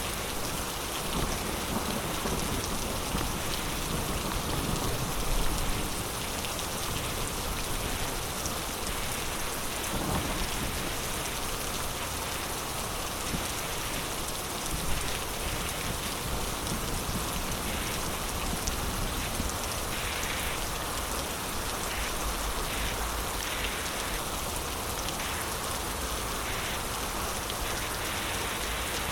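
Heavy rain pouring steadily in a storm, a dense hiss of drops on surfaces, with a low thunder rumble swelling a few seconds in.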